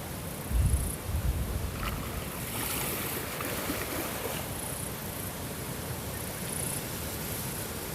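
Water washing steadily, like waves or lapping water, with two louder low thumps about half a second to a second and a half in.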